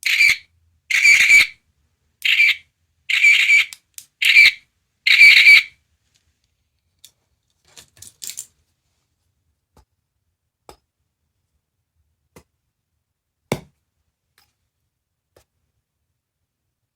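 A small capsule-toy sound gadget playing six short, loud, hissy sound effects through its tiny speaker in the first six seconds, followed by a few faint clicks of handling and one sharper click.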